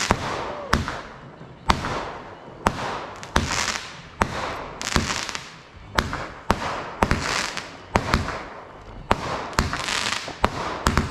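Firework cake (multi-shot barrage) firing shot after shot, about one or two bangs a second. Each bang is followed by a crackling hiss as the shell bursts.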